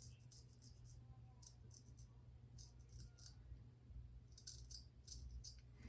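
Faint, short scratching strokes of a vintage straight razor scraping over stubbled skin, coming in irregular clusters of quick passes over a low steady hum.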